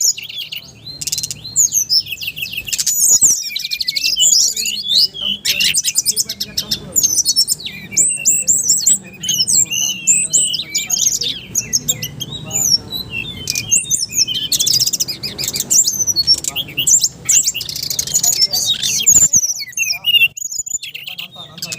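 Songbirds singing loudly: many shrill chirps and sweeping whistles overlap, broken by several fast rattling trills.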